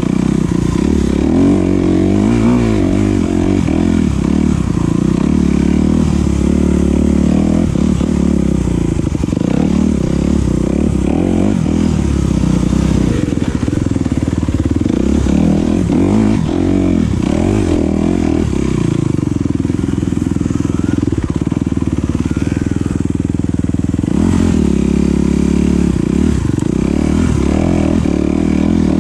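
Enduro dirt bike engine being ridden hard off-road, its revs rising and falling continually as the throttle is worked.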